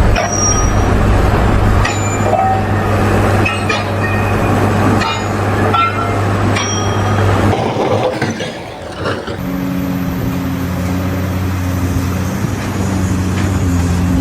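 Steady low hum of running machinery with scattered clanks and squeaks. About nine seconds in it gives way to a different steady machine hum with a higher set of tones.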